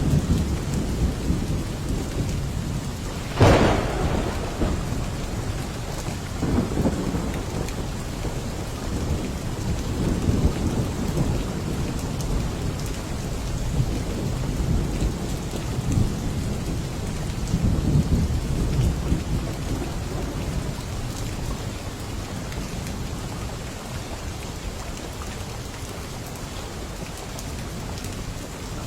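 Steady heavy rain with thunder: a sharp crack about three and a half seconds in, then low rolling rumbles that rise and fade several times.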